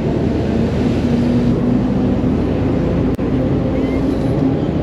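A motor vehicle engine running steadily with a low hum and rumble, with a brief break in the sound about three seconds in.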